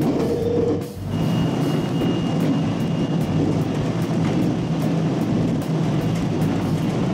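Electric local train running along the line, heard from inside the front car: a steady rumble of running noise with a motor hum, dipping briefly about a second in.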